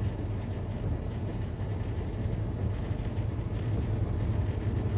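Semi-truck running at highway speed, heard from inside the cab: a steady low engine drone with road and tyre noise.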